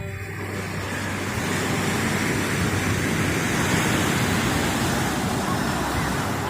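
Ocean surf at the water's edge: a wave's rush of noise that swells up over a few seconds and then eases off.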